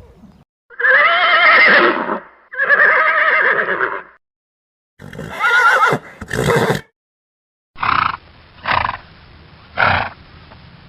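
A series of animal calls from edited-together clips. First come two long, warbling calls, each about a second and a half. Then there is a shorter double call, and near the end four short calls about a second apart.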